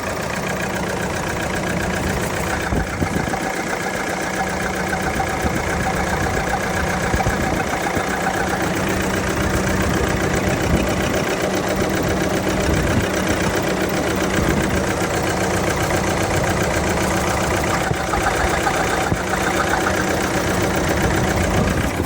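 Ford Transit 2.2 diesel engine idling with a slight misfire, which the owner fears may mean engine damage.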